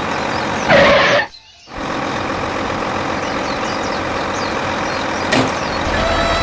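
Mini tractor engine running steadily, cutting out suddenly for about half a second just after a second in. There is a short louder sound just before the gap and a brief click near the end.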